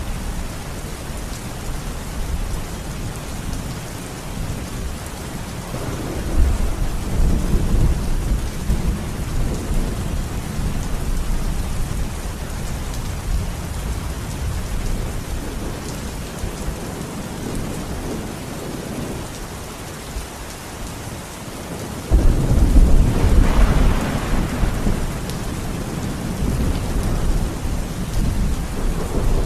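Steady rain with rolling thunder: one rumble builds about six seconds in and fades, and a louder, sharper clap breaks about twenty-two seconds in and rumbles off over a few seconds.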